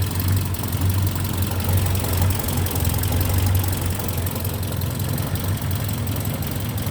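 1957 MG Magnette ZB's 1.5-litre B-series four-cylinder engine idling steadily.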